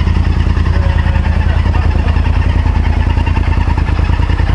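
An engine running steadily at idle: a low, even rumble that does not change.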